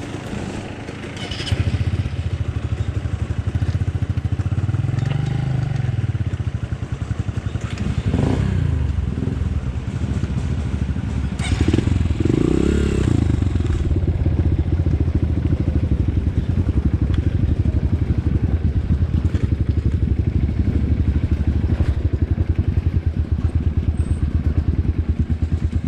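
Off-road motorcycle engine starting up about a second and a half in, blipped up and back down three times, then running at a steady idle.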